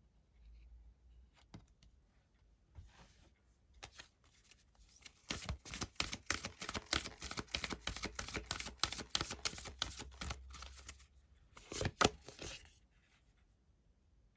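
Tarot cards being shuffled by hand, their edges flicking together. Faint rustling comes first, then a dense run of rapid card flicks starting about five seconds in and lasting about six seconds, then a short final burst of shuffling near twelve seconds.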